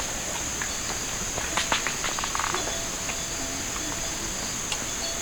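Steady, high-pitched buzz of an outdoor insect chorus, with a few faint clicks and rustles.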